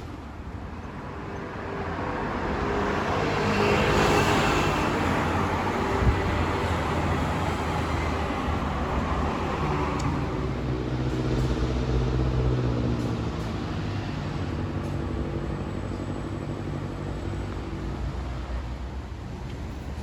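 Road traffic: a vehicle passes close, loudest about four seconds in, then a vehicle engine runs low and steady for several seconds before fading.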